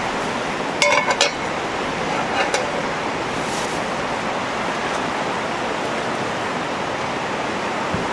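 A quick run of four or five sharp, ringing metal clinks about a second in, with two fainter clinks a second and a half later: utensils striking cast-iron cookware. Under them runs a steady, even rushing noise.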